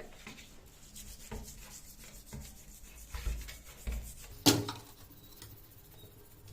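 Rubbing and scraping of hand work on the parts of an old hydraulic jack, with scattered light knocks and one sharp knock about four and a half seconds in.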